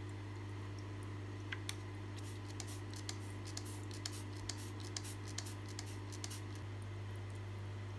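A scatter of light clicks and scratches from hands handling small tools or layout materials, irregular and spread over a few seconds, over a steady low hum.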